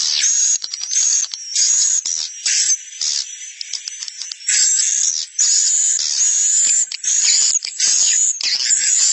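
Edible-nest swiftlet calls from a roosting-lure recording used in swiftlet farming: a dense run of high, buzzy chirps one after another, with a quieter stretch in the middle and short runs of rapid clicking.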